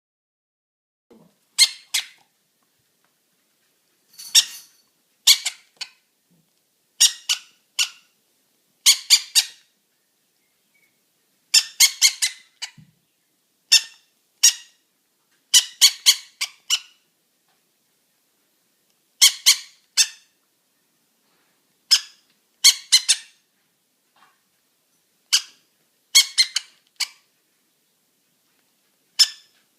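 A baby conure begging while being hand-fed. It gives short, high squeaky calls in quick groups of two to four, repeated every couple of seconds.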